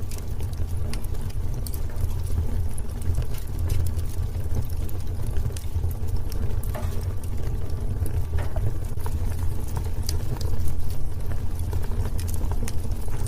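Wood fire in a fireplace crackling: irregular sharp pops and snaps over a steady low rumble of burning logs.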